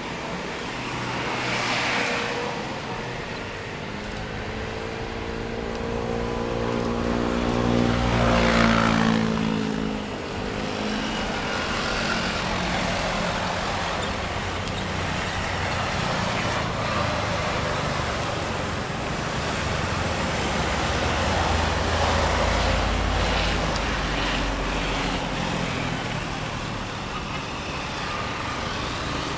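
Airbus A350-900's Rolls-Royce Trent XWB turbofans at takeoff power as the jet goes past. It is loudest about eight seconds in, where the engine whine bends downward in pitch, and a steady rumble follows.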